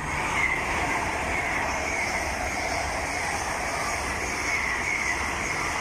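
A pair of Great Western Railway Class 802 trains passing through the station, making a steady rush of wheels on rail with a high hum in it.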